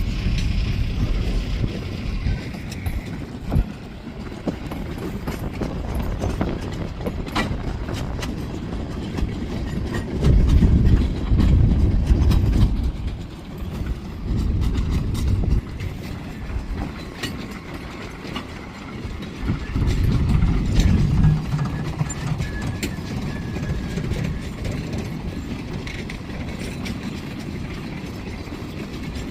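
CSX freight train rolling slowly past. A continuous low rumble swells twice, with scattered clicks and clanks from the wheels and cars.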